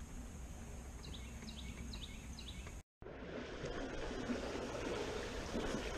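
A small bird calling faintly, a run of about five short falling chirps, over quiet background. After a brief cut-out about halfway, a steady rushing noise with no distinct events.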